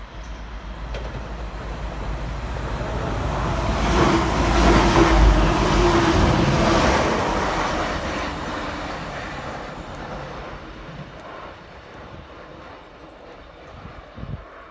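Diesel multiple unit passenger train running through the station without stopping. Its engine and wheel noise build, peak for about three seconds a third of the way in with a steady hum, then fade as it runs away.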